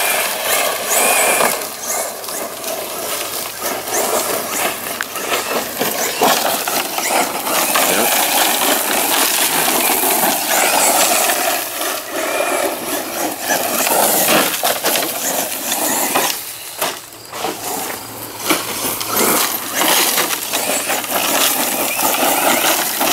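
ECX Torment electric RC short-course truck driving over rocky ground: the motor whines, rising and falling with the throttle, while stones crunch and clatter under the tyres, with many small knocks. The sound drops away briefly about three-quarters of the way through.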